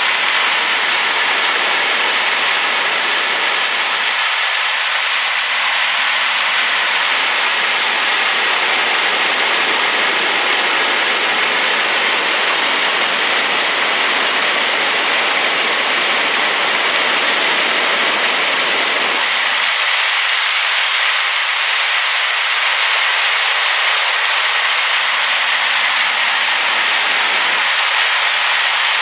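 Powerful waterfall swollen by rain, its water pouring down in a loud, steady rush with no break.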